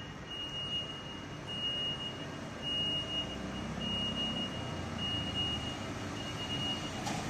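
Lovol FR80 excavator's alarm giving long, high-pitched beeps about once a second over its diesel engine running. This is the kind of alarm an excavator sounds while tracking or slewing.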